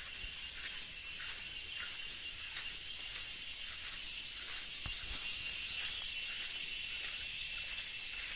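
Insects buzzing in a steady high chorus, with a sharp chirp repeating about every two-thirds of a second.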